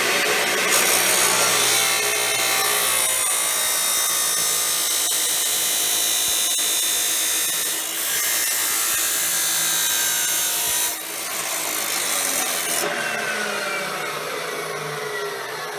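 14-inch abrasive wheel chop saw grinding through steel stock for about ten seconds, with a harsh, hissing cut noise over the motor. The noise stops about eleven seconds in, and the motor then whines down in falling pitch as the wheel spins down.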